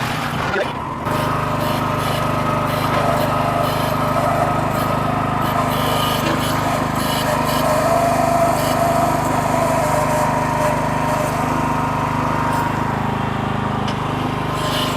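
Small Nortrac backhoe's engine running steadily under load while it digs and lifts dirt, with a higher wavering whine over the engine note. The sound steps up sharply about a second in.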